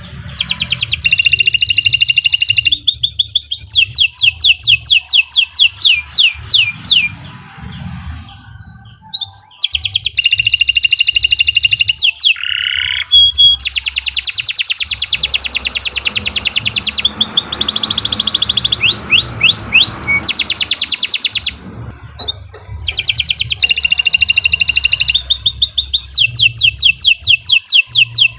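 Domestic canary singing long runs of rapid trills and rolls, pausing briefly twice.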